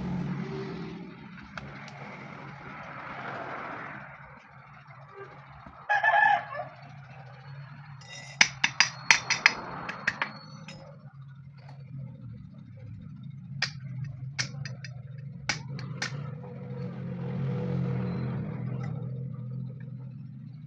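Workshop noise: a steady low hum, with a short loud sound about six seconds in and two clusters of sharp taps and clicks, the first about two seconds after that and the second a few seconds later.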